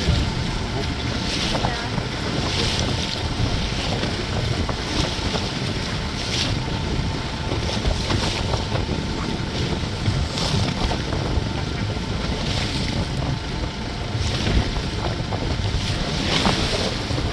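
Small tour boat under way at sea: a steady low motor rumble under heavy wind noise on the microphone, with the hiss of water rushing along the hull swelling in short surges every few seconds.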